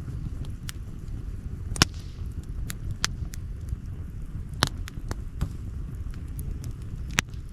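Outdoor campfire crackling: sharp pops and snaps at irregular intervals, the loudest about two seconds in, a little past halfway and near the end, over a steady low rumble.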